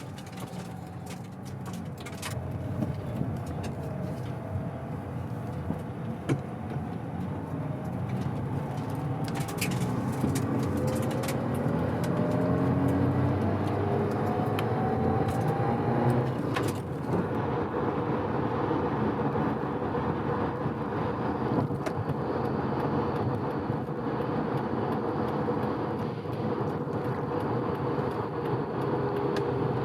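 Mazda FD3S RX-7's twin-turbo 13B rotary engine pulling gently in gear with a steadily rising pitch, then dropping in pitch after a gear change about sixteen seconds in and running steadily at cruise, over steady road noise. The rebuilt engine is being run in, so the acceleration is mild.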